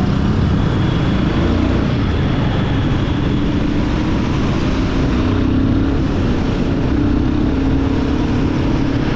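Royal Enfield Guerilla 450's single-cylinder engine running under way in city traffic, its pitch drifting a little up and down as the throttle changes, over a steady rush of wind and road noise.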